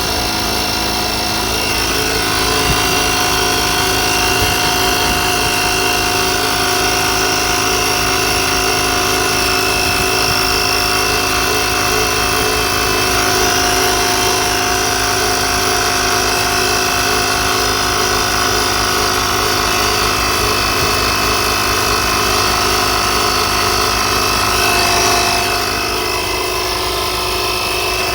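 Portable 12-volt piston air compressor running steadily, a fast pumping rhythm under a steady motor whine; its tone shifts slightly near the end.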